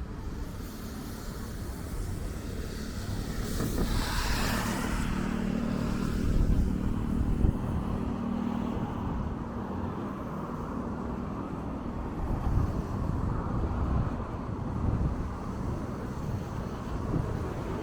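City street traffic on wet roads: a vehicle passes with a tyre hiss about four seconds in, followed by an engine's steady low hum for several seconds.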